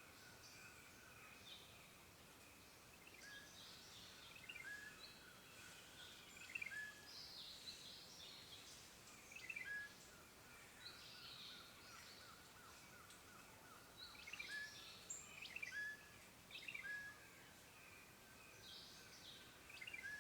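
Several birds calling and chirping, short repeated notes and twittering coming every second or two, over faint steady background hiss.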